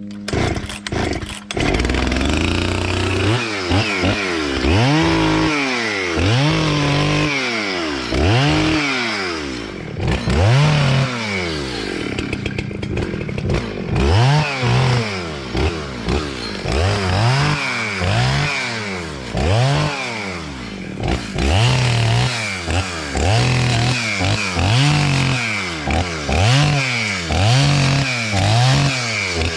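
Gasoline chainsaw started about a second in, then revved up and down over and over, roughly once a second, as it cuts into a tree.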